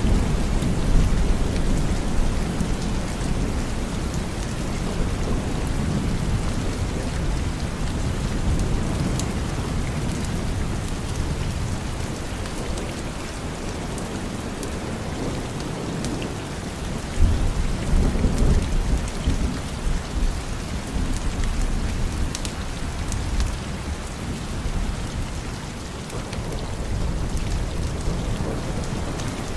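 Steady rain with low rolling thunder: one roll at the start and another swelling about seventeen seconds in.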